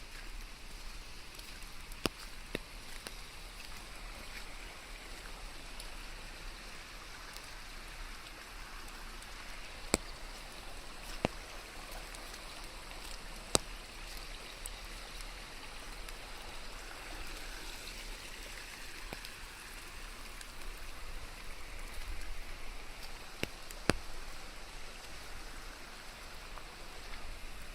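Steady rain falling, with a few sharp single drips or taps now and then.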